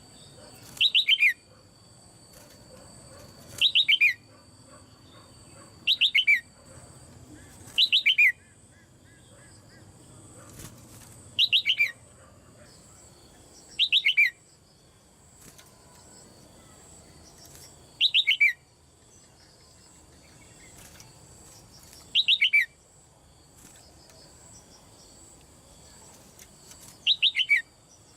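Female red-whiskered bulbul calling in a cage: nine short, loud bursts of quick downward-sweeping notes, spaced two to five seconds apart.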